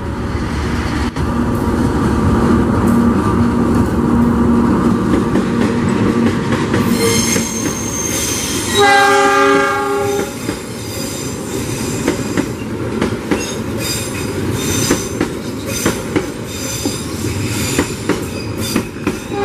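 Locomotive-hauled passenger train passing close by: steady running noise at first, then one horn blast about nine seconds in, a chord of several notes about a second and a half long and the loudest sound. After it come high wheel squeal and quick clicking of wheels over the rails as the stainless-steel coaches roll past.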